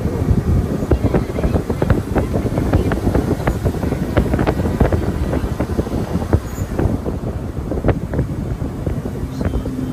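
Vehicle riding over a rough road: a continuous low rumble with many irregular knocks and rattles.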